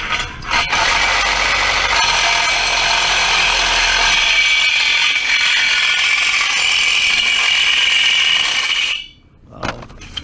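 A power tool working on metal, running steadily with a high, loud, screaming pitch for about eight seconds, then cutting off suddenly near the end.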